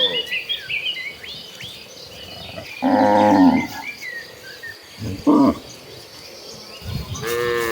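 Cattle mooing: a loud moo about three seconds in, a short one about two seconds later, and another starting near the end. Birds chirp in the background throughout.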